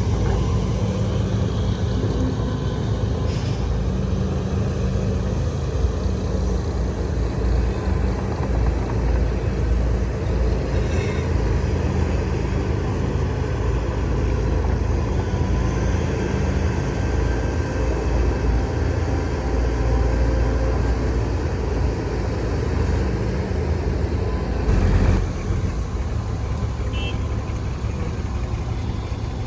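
Diesel engines of heavy earthmoving machinery, an excavator and dump trucks, running steadily. A few short, sharp noises stand out, the loudest a brief burst about 25 seconds in.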